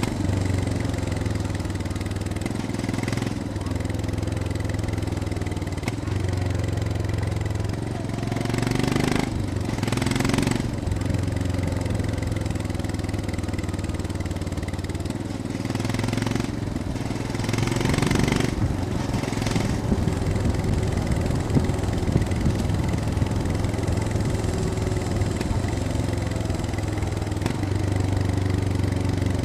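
Royal Enfield Scram 411's single-cylinder engine running on the move, its pitch rising and falling with the throttle. A few brief rushing noises pass over it, about a third and again about two-thirds of the way through.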